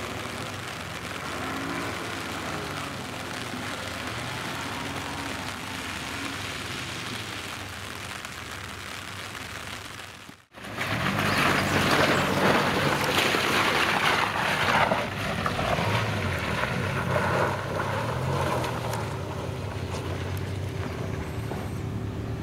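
Off-road 4x4 engine revving up and down. After a sudden break about ten seconds in it comes back louder, with engine revs under a broad rushing noise.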